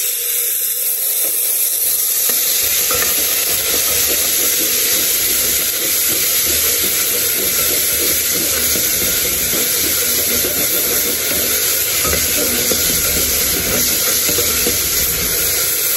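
Meat and garlic frying and sizzling in a pot, with a spoon stirring and scraping the bottom from about two seconds in.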